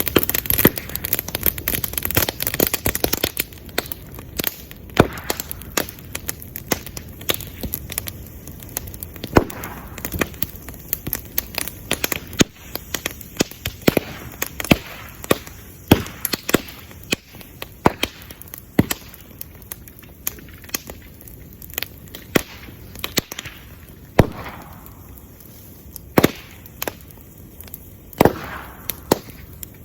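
Bamboo bonfire burning with a steady crackle and frequent sharp, loud pops as the hollow bamboo segments burst from the trapped air and steam heating inside them. The crackling is densest in the first few seconds, then the pops come more sparsely.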